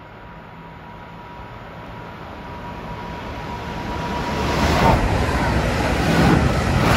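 Passenger train approaching and passing directly beneath, its rumble and rush growing steadily louder, with gusty bursts of air buffeting the microphone once it is underneath.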